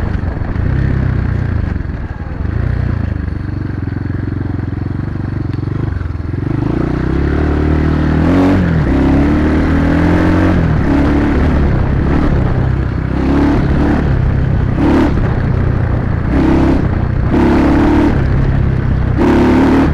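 Chinese dirt bike engine running while being ridden, its revs rising and falling through the throttle.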